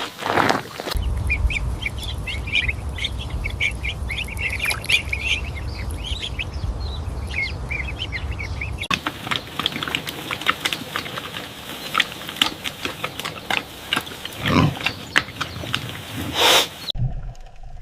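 Farm animal calls in edited clips: first many short high-pitched chirps over a low rumble, then a run of clicks and grunting noises with two louder calls near the end.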